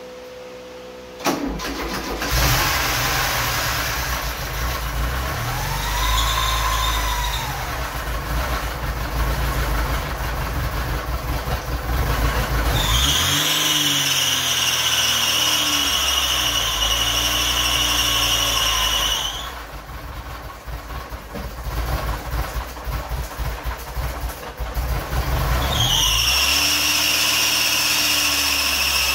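1983 Porsche 944's four-cylinder engine starting about a second in on its first start after new belts, then running with a brief rev. A loud, steady high-pitched squeal joins the engine about halfway through and again near the end, from the accessory drive belt, which is tight enough that it has to be loosened.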